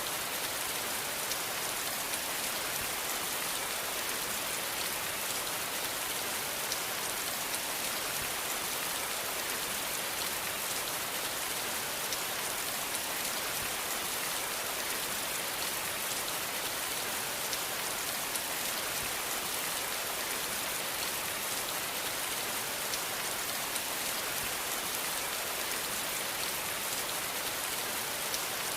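Steady rain falling, an even hiss with countless small drops pattering.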